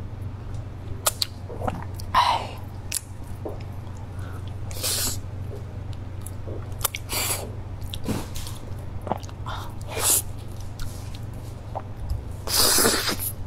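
Close-miked chewing and biting of soft, ripe durian flesh: many small mouth clicks and smacks, with a few louder breathy bursts about five, seven, ten and thirteen seconds in. A steady low hum runs underneath.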